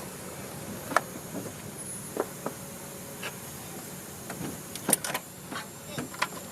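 Irregular metallic clicks and light clanks of tools and parts being handled during engine removal, over a steady background hum.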